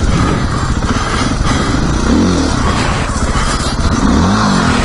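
Dirt bike engine running and being revved, its pitch rising and falling about two seconds in and again near the end, as the rider tries to get the bike over a log.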